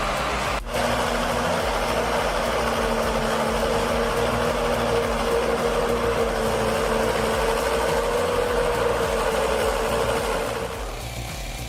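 A heavy machine's engine runs steadily with a constant droning tone. It drops out briefly under a second in, and the level falls near the end.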